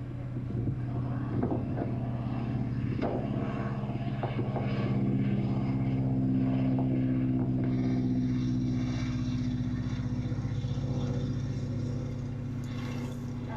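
An engine running steadily with an even low drone, a little louder midway, and some knocks and rattles in the first few seconds.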